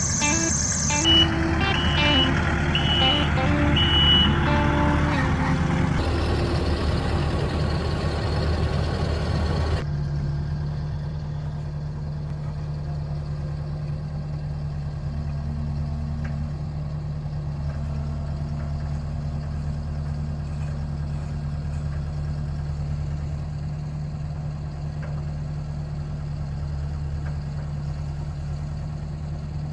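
Truck engine running while backing up, its reversing alarm giving several evenly spaced high beeps, about one a second, in the first few seconds. About ten seconds in the sound turns to a steady engine idle.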